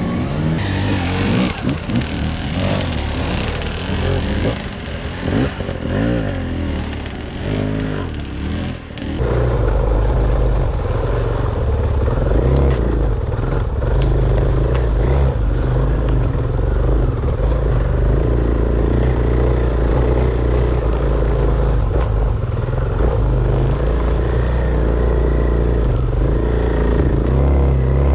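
Dirt bike engine revving up and down as it is ridden over rough trail, with clatter from the bike. About nine seconds in, the sound changes abruptly to a steadier, heavier low rumble.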